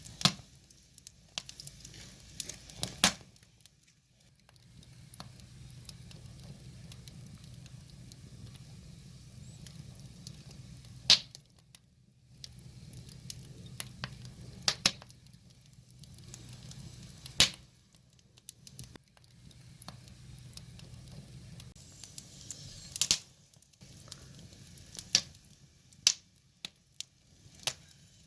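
Firewood burning in an open fire, crackling with irregular sharp pops, a few of them loud, over a low steady rumble.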